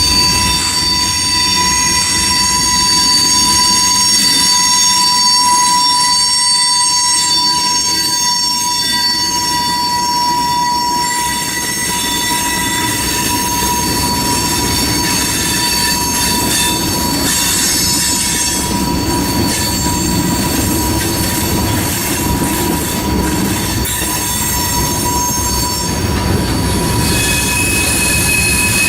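Freight train cars rolling through a curve, their steel wheel flanges squealing against the rail in several steady high-pitched tones over a low rumble of the wheels on the track.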